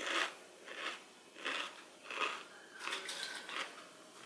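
A mouthful of 3D Doritos puffed corn chips being chewed, crunching in a steady run of about six bites, one every two thirds of a second.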